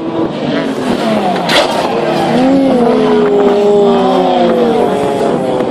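BMW M3 rally car's engine running hard, its revs rising and falling through gear changes, with a brief sharp burst of noise about one and a half seconds in.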